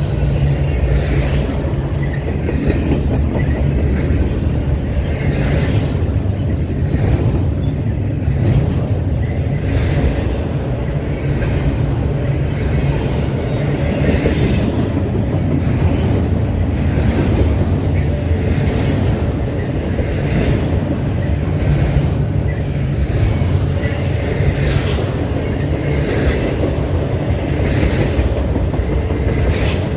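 Train rolling past: a steady low rumble with repeated clacks of the wheels over the rail joints.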